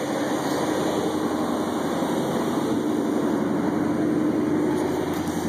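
GMC pickup's 305 V8 idling steadily shortly after a cold start, with loud fan noise over the engine.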